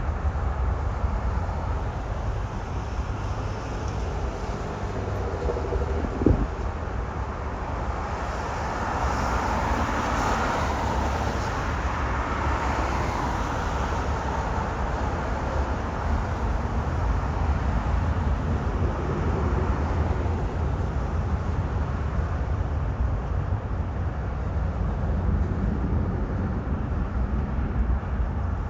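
Jet airliner's engines heard as a broad rushing drone that swells about eight seconds in, is strongest for several seconds, then fades, over a steady low rumble. A single knock sounds about six seconds in.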